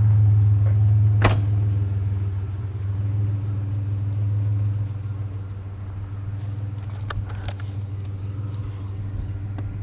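Truck engine running steadily at low speed with a low, even drone that eases off a little about halfway through. A single sharp click about a second in.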